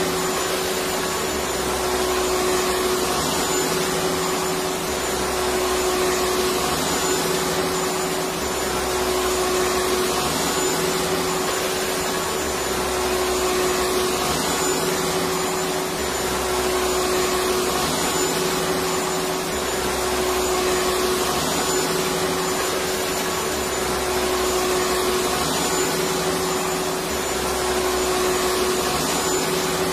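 Electric vacuum cleaner running steadily: a continuous rushing noise with a steady hum, and a faint low-pitched pattern that repeats about every two seconds.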